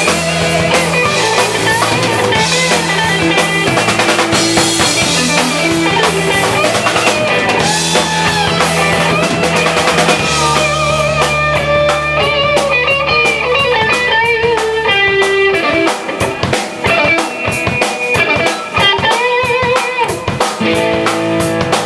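A rock band playing live: guitar lines over a bass and a drum kit. About sixteen seconds in, the bass drops out, leaving guitar and drum hits, and it comes back in near the end.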